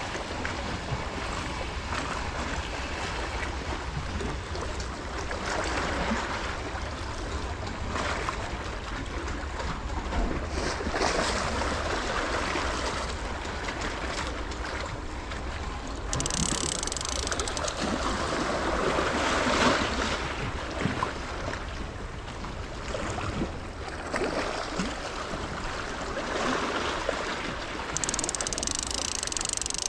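Sea waves washing against a rocky shore, swelling and easing every few seconds, with a steady low rumble of wind on the microphone.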